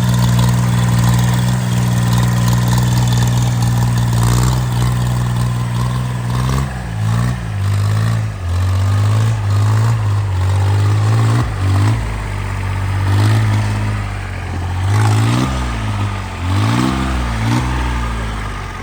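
Homemade tractor's engine running loud and steady at first. From about six seconds in, its speed rises and falls repeatedly, roughly every second or two.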